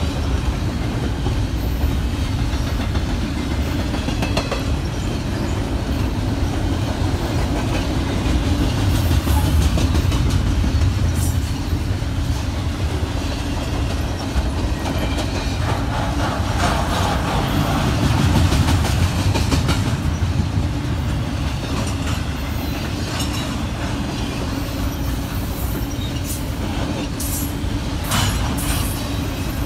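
Double-stack intermodal freight train rolling past: a steady, loud rumble of steel wheels on the rails with clickety-clack over the rail joints, swelling and easing as the cars go by.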